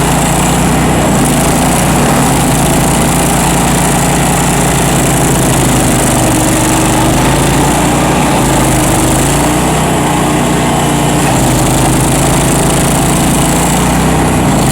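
Bandit ZT1844 stump grinder's engine running steadily at high throttle.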